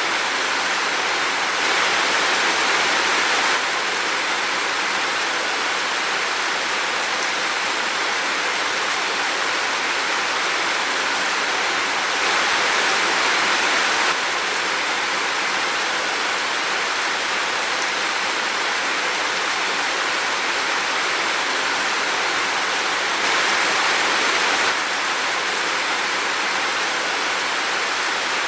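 Heavy rain falling, a steady even hiss that swells slightly three times for a second or two.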